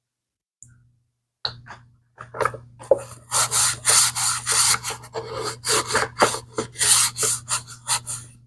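Brush scrubbing a leather bag in quick back-and-forth strokes, about three a second, starting about a second and a half in.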